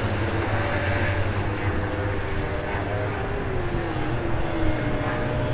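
Superbike engines running on track: a steady drone, with one engine note sliding slowly down in pitch around the middle.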